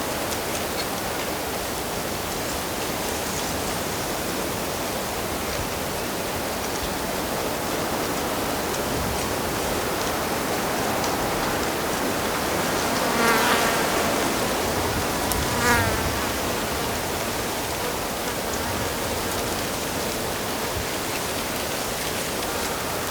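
A stream flowing steadily, with a fly buzzing close past the microphone twice, about halfway through.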